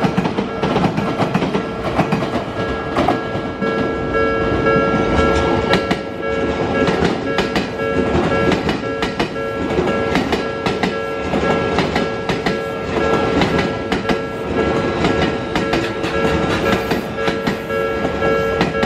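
Odakyu 3000 series commuter train's wheels clicking over rail joints at a level crossing, a long irregular run of clicks over rolling noise. A level-crossing warning bell keeps ringing through it.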